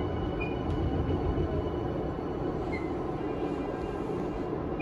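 Tokyu 5000-series electric train running at speed, heard from inside the passenger car: a steady rumble of wheels on rail with a faint steady whine above it and a couple of brief high squeaks.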